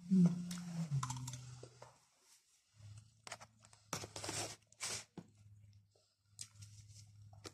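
Quiet eating sounds: a low closed-mouth hum in the first couple of seconds, then chewing of rice and crisp raw salad greens, with a few short crunches and clicks between about three and five seconds in.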